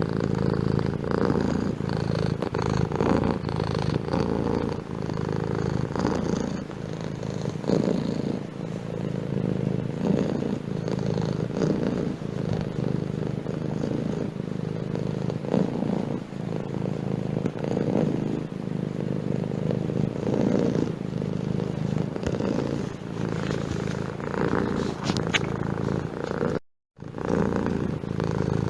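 Domestic cat purring steadily up close, a continuous low rumble that pulses with each breath. It cuts out briefly near the end.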